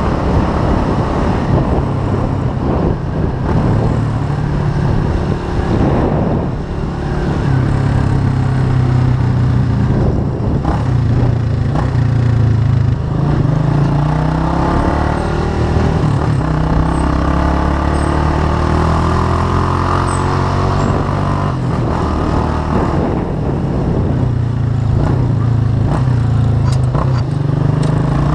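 Chopper-style motorcycle engine running under way, its note rising and falling several times with the throttle, over wind rushing past.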